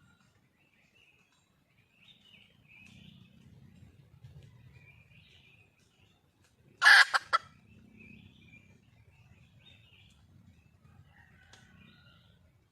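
Red junglefowl giving one loud, short call in three quick parts about seven seconds in, with faint chirping of small birds around it.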